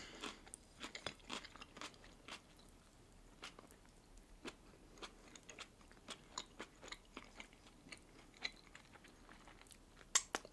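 Close-miked chewing of a bite of red caviar sandwich: soft, irregular wet mouth clicks and small crunches. A sharper pair of lip smacks comes near the end as a finger is licked.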